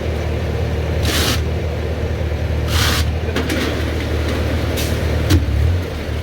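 An engine running steadily, with short hissing bursts about every two seconds and a sharp click about five seconds in.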